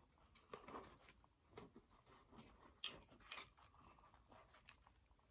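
Faint chewing of a mouthful of steamed vegetable dumpling with lips closed, with small scattered mouth clicks and soft sounds of a paper takeout box being handled.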